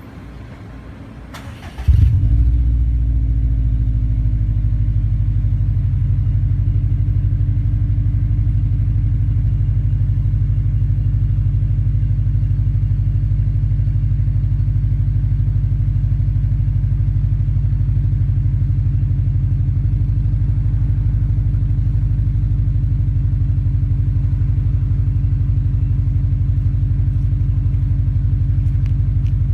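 Subaru WRX STI turbocharged flat-four with an STI Performance Exhaust, cold-started. The starter cranks briefly, the engine catches about two seconds in with a short flare, then settles into a steady, low cold-start idle.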